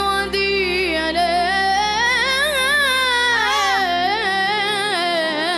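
A child singing a melismatic Arabic melody with long, winding vocal ornaments over a steady instrumental accompaniment.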